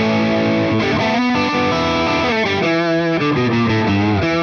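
Distorted electric guitar played through a Boss IR-2 amp and cabinet simulator on a high-gain amp model, which the player believes is Boss's own proprietary voicing. Sustained lead notes, with bent notes and wide vibrato about halfway through.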